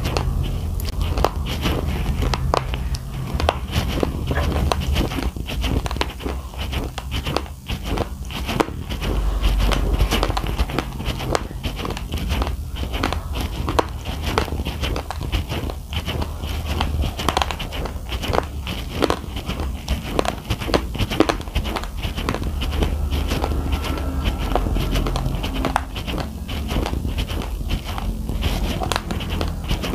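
Raw, uncooked rice grains being chewed: dense, irregular crunching and cracking of hard grains, close to the microphone.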